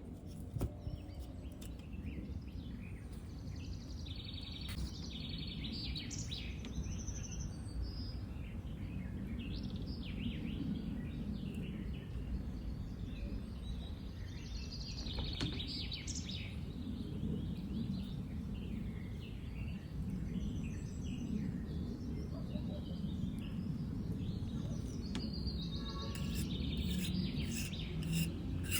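Birds chirping on and off over a steady low background rumble, with a few sharp clicks near the end.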